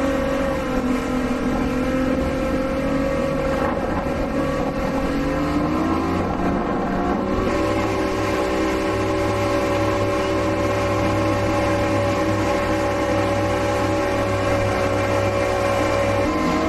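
Motorboat engine running steadily, picking up speed about five seconds in and then holding at a higher pitch.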